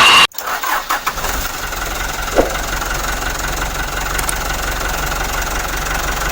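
Mitsubishi Colt Diesel dump truck's diesel engine running, its low rumble coming in about a second in and holding steady, with a brief sharp sound about two seconds in.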